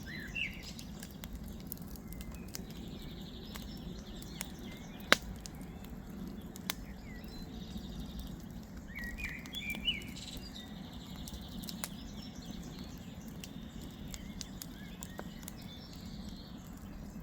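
Campfire crackling, with scattered sharp pops over a steady low rush; one pop about five seconds in is much louder than the rest. Birds chirp now and then, most clearly around ten seconds in.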